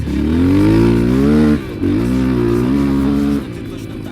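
Enduro motorcycle engine revving under throttle: the pitch climbs, dips briefly about one and a half seconds in, climbs again, then falls away as the throttle is let off near the end.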